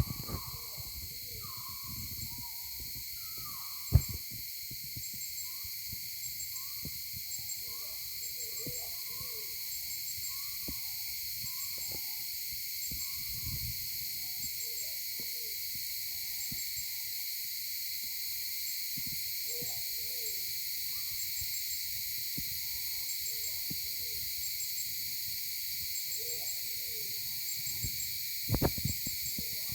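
Birds, called maleo locally, giving repeated short downward-sliding calls about once a second, several overlapping, over a steady high hiss. Sharp knocks come about four seconds in and again near the end.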